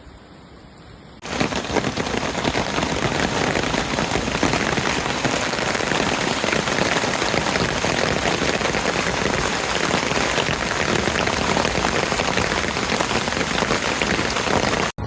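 Steady heavy rain, starting abruptly about a second in and cutting off suddenly just before the end.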